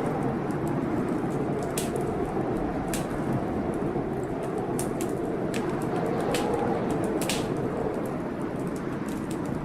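Wood fire crackling, with irregular sharp pops, over the steady rushing noise of a rainstorm.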